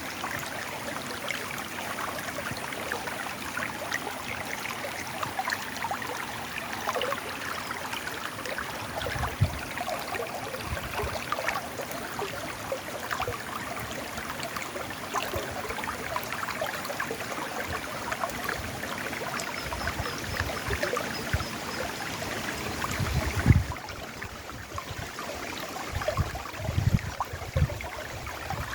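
River water flowing and splashing over rocks, a steady gurgling wash. A few low thumps come through, the loudest about three-quarters of the way in, after which the water sounds a little duller.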